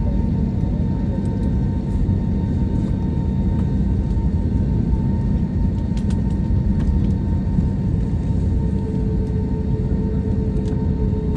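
Steady airliner cabin noise: a dense low rumble with a constant hum, and a second steady tone joining about eight seconds in.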